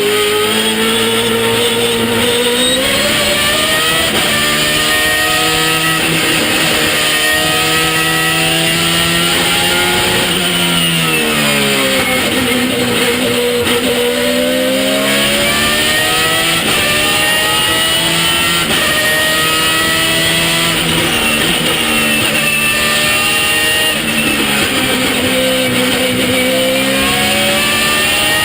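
A 4-litre Judd V8 race engine in a BMW E82-bodied car, driven hard through a straight-cut sequential gearbox. Its pitch climbs in steps with each quick upshift, then drops sharply twice as the car brakes and downshifts, about eleven and twenty-four seconds in.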